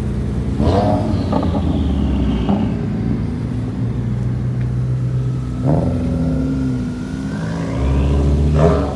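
Car engines running loudly at low revs, with short revs about a second in, near six seconds and near the end.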